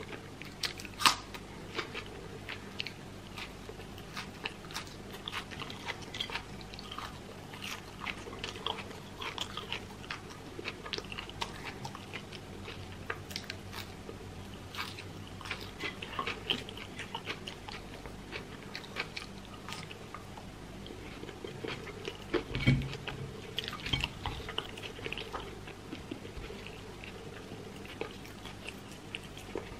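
Close-miked crunching and chewing of raw green onion and fresh parsley: a steady run of crisp bites and wet mouth clicks, with one sharper crunch about a second in and a dull thump about two-thirds of the way through.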